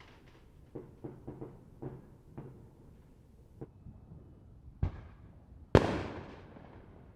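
Distant neighbourhood fireworks: a scatter of small pops and crackles, then two booms about a second apart, the second the loudest and trailing off in a long rolling echo.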